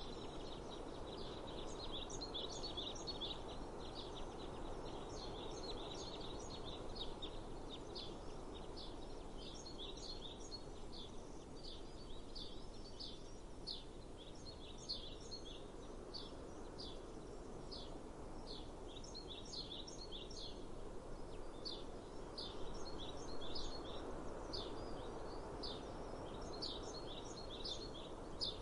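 Small birds chirping in quick, repeated short notes over a steady outdoor hiss of breeze and ambient noise.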